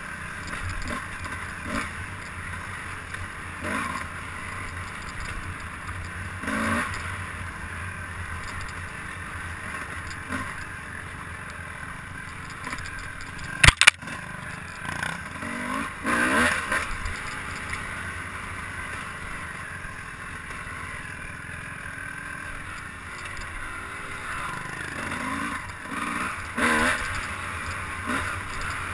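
A motor vehicle's engine running steadily during a ride, with wind and rattle over it, occasional knocks and one sharp click about fourteen seconds in.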